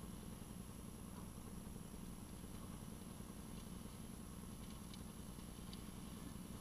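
Faint, steady hum of an engine idling, with a few light ticks in the second half.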